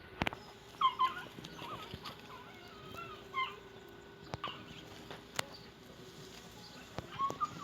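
Puppy whimpering in short, high cries that come in small clusters, with a few sharp clicks between them.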